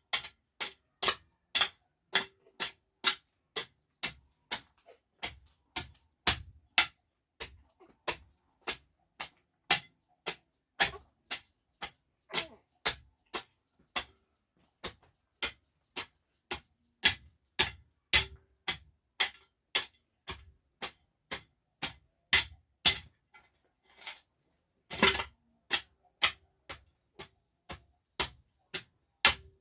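Hammer blows struck at a steady pace of about two a second, each a sharp crack with a short ring, with a couple of brief pauses.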